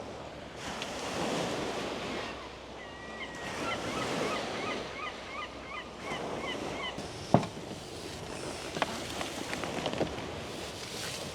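Sea waves washing ashore in slow swells, with wind. In the middle a bird calls in a quick run of short chirps, about three a second, and about seven seconds in comes one sharp knock, followed by a few lighter clicks.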